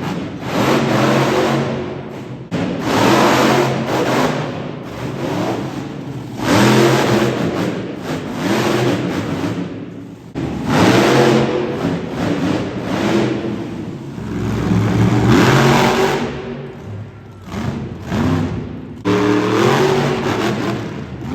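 Monster truck engine revving hard in repeated surges every few seconds, its pitch rising and falling with each burst of throttle.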